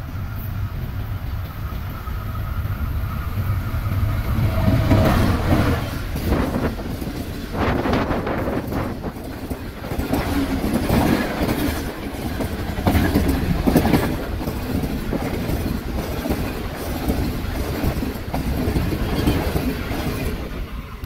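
Green Line Express passenger train, led by a GE40 diesel-electric locomotive, passing at speed of around 100 km/h. The sound grows over the first few seconds as the train nears. Then the coaches' wheels clatter quickly over the rail joints as they rush past, easing near the end.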